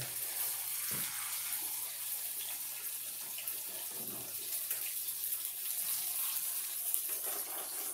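Patties of cooked rice frying in hot grapeseed oil in a frying pan: a steady sizzle. A second patty goes into the oil about midway through.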